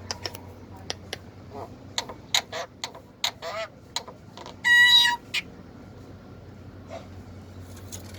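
Black-winged starling calling: a string of short sharp chirps and quick warbled whistles, then one loud, longer call with a strong stacked tone just before five seconds in, and a few more chirps after.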